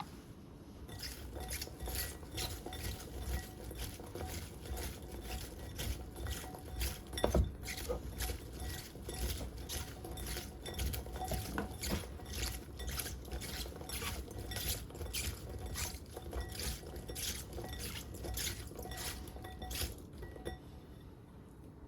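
Kitchen knife cutting food on a cutting board in an even rhythm of about two to three strokes a second, with one louder knock about seven seconds in.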